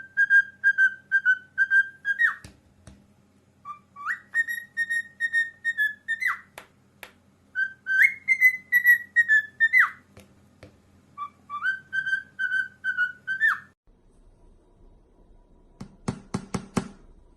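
Parrot whistling a short tune in four repeated phrases, each a string of quick clear notes, about three or four a second, ending in a sharp upward flick. A steady low hum lies under it, and a few sharp clicks come near the end.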